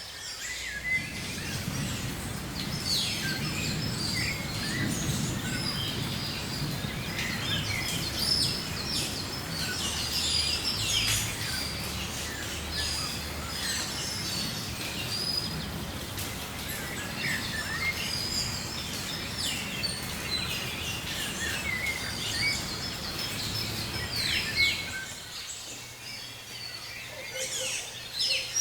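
Several tropical forest birds calling, with many short chirps and quick falling notes from different birds, over a steady low rumble that fades out near the end.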